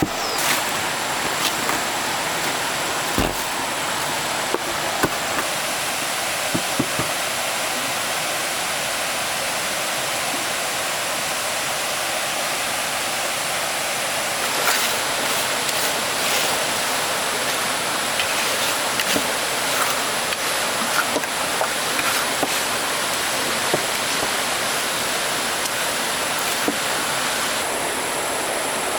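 Stream water rushing steadily, with occasional short knocks and clicks scattered through it.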